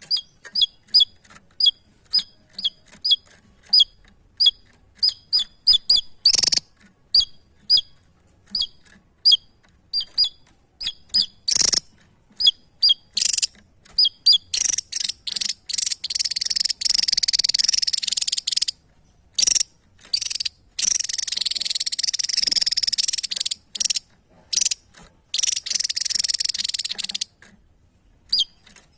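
A small songbird calling: short, sharp, high two-note chirps about twice a second, then from about halfway on, long rapid high trills of two to four seconds each, with single chirps in between.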